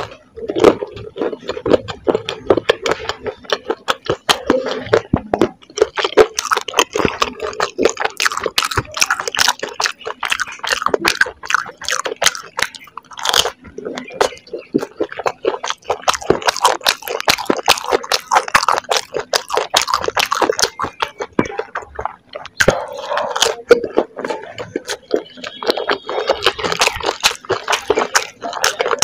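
Close-miked chewing of a crisp golgappa (pani puri shell) topped with corn and cheese: rapid, sharp crunching of the fried shell, with a couple of brief pauses.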